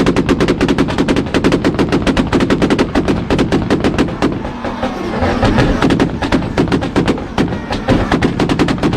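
Toyota Supra engine held on a two-step launch limiter, its exhaust firing a rapid, loud machine-gun string of pops and bangs, with a brief lull about halfway. The limiter cuts ignition so unburnt fuel goes off in the exhaust.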